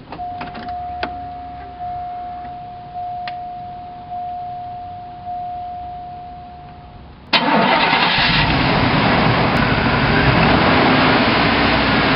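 A car's warning chime dings about once a second for roughly seven seconds. Then the 1990 Cadillac Brougham's V8 starts abruptly and keeps running.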